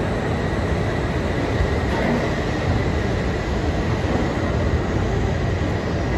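E6 series Akita Shinkansen train pulling slowly away from the platform just after uncoupling, giving a steady low rumble with a faint high whine over it.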